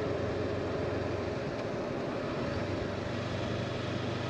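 Honda motorcycle engine running steadily while riding, a low hum under an even rush of wind and road noise.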